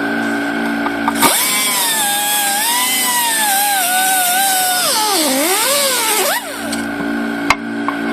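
Pneumatic angle die grinder running for about five seconds: a high whine over a rush of exhaust air, its pitch wavering and dipping shortly before it cuts off. Underneath, the twin-head dental compressor's Copeland pumps run with a steady, low pulsing hum, and a few light clicks come near the end.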